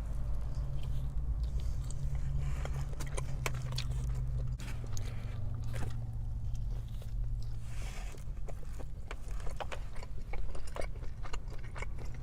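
A person biting into and chewing a burrito, close to the microphone, with many short wet clicks and smacks from the mouth. A steady low hum sits underneath throughout.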